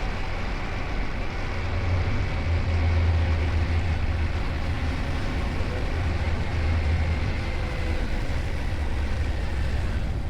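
Yamaha Ténéré 700's parallel-twin engine running steadily while riding, a constant low drone under a broad rush of road and wind noise.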